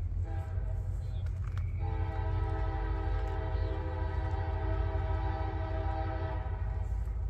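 Five-chime K5LA air horn on a CSX GP40-2 locomotive sounding a short blast and then a long steady blast, over the low rumble of the locomotive and train.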